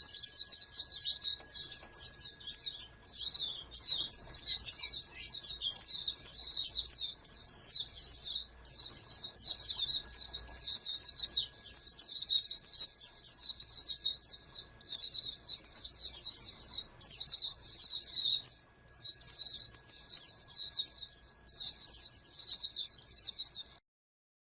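Pleci (white-eye) singing a rapid, high twittering song in long, nearly unbroken phrases, with short pauses every few seconds; the song cuts off near the end.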